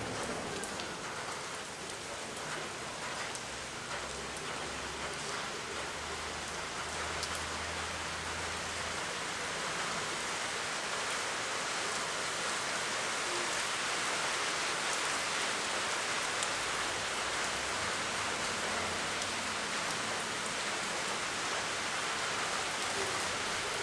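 Steady rain falling on roofs and the ground, a dense continuous hiss with a few faint drop ticks, growing a little louder later on.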